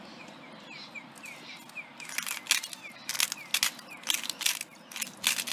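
Handheld grinder crunching Himalayan pink rock salt crystals, a quick run of sharp crunching twists starting about two seconds in. Faint repeated high chirps sound before it.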